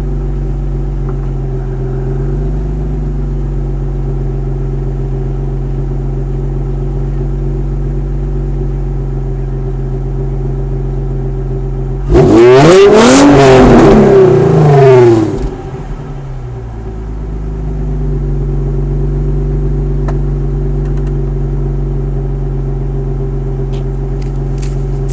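2005 Infiniti G35 coupe's 3.5-litre V6 through a 3-inch exhaust, idling warm, then revved once about halfway through: the pitch climbs and falls back over about three seconds, and the engine settles to idle again.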